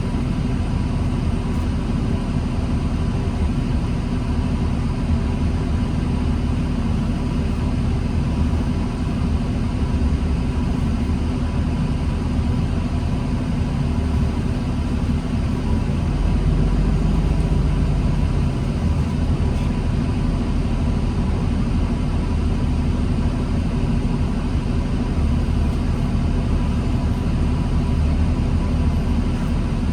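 Diesel engine of a 2009 New Flyer D40LFR transit bus running steadily with a low rumble, heard from aboard the bus. The deepest part of the rumble swells for a few seconds a little past the middle, then settles back.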